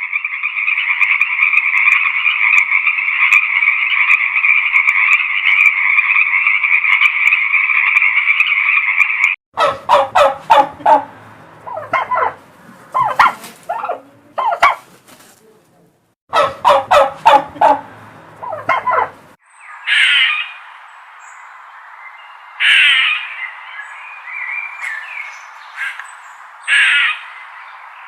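Poultry calling: a dense, steady chorus for about nine seconds, then two bouts of fast rattling calls, then short separate calls over a steady hiss.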